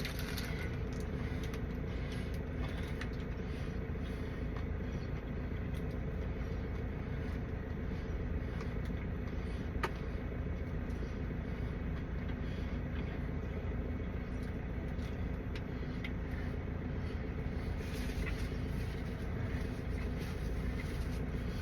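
Steady low rumble of motor vehicles with a faint even hum, and a single light click about ten seconds in.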